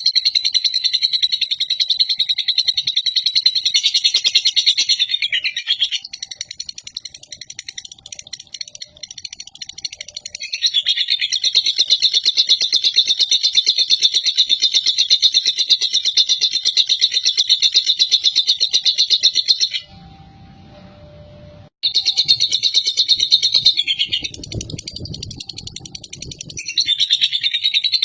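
Lovebird singing its long, rapid chattering 'ngekek' song, high and buzzy, in unbroken runs of several seconds with softer stretches between. About two-thirds of the way through it breaks off for about two seconds, where a low rumble and a short tone are heard.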